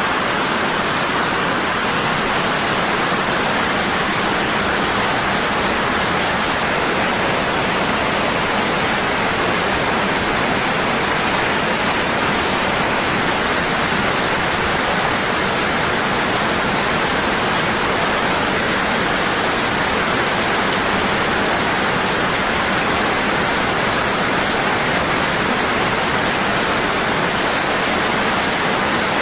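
Waterfall: water falling heavily and steadily into a pool, an even, unbroken rush with no changes.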